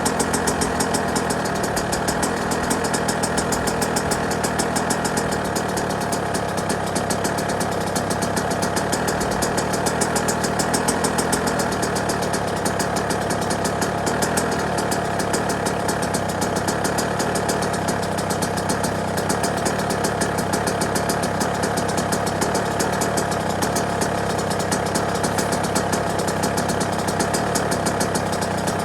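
Yamaha YZ125 two-stroke dirt-bike engine idling steadily, a fast even rattle of firing pulses that holds the same speed throughout.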